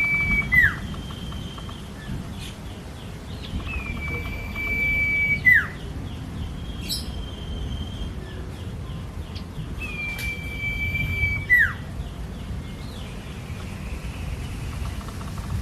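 Common iora (cipoh) singing a long, level whistle that ends in a sharp downward drop. The whistle ends just after the start, comes again about five seconds in and about eleven seconds in, with shorter chirps between.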